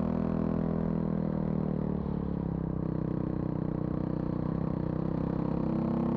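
Vehicle engine running under way, its note dropping about two seconds in and rising again near the end as the throttle changes.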